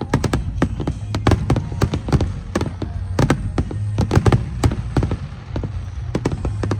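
Fireworks display going off in a rapid run of sharp bangs and crackles, several a second, over a low rumble.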